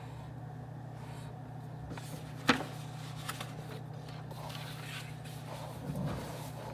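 Office room ambience: a steady low hum of ventilation with a sharp knock about halfway in and a few lighter clicks and handling noises after it.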